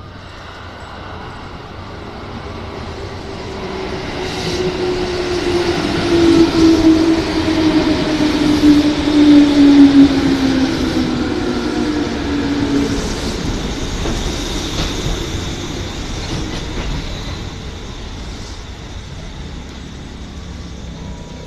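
A JR 201 series electric commuter train rolls into the station and brakes to a stop. Wheel and running noise builds as it approaches and is loudest as the cars pass, about halfway through. A humming tone falls in pitch as the train slows.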